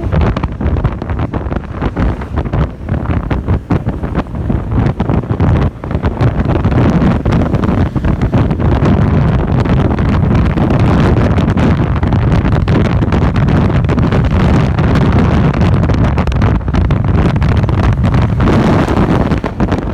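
Wind buffeting the microphone on a moving motorcycle, with engine and road noise beneath. It is gusty at first, then steadier and louder from about six seconds in.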